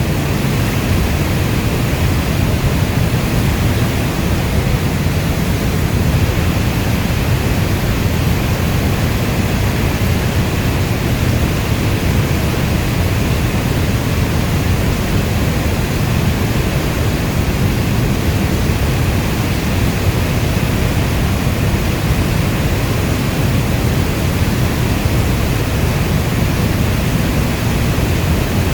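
Steady heavy rainfall: a dense, even rushing hiss, heavy in the low end, with no thunder and no single drops standing out.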